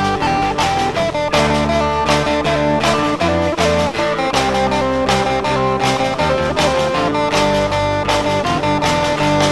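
Instrumental break of a band song: guitar lines over bass and drums with a steady beat.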